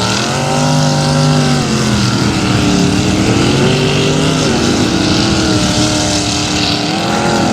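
An engine revving up and down several times, its pitch rising and falling, loud.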